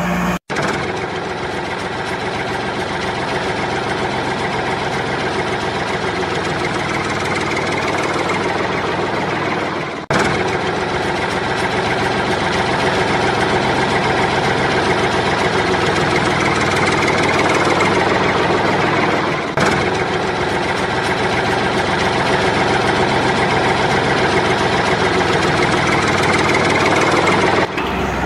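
A vehicle engine running steadily, with brief cuts about 10 and 20 seconds in.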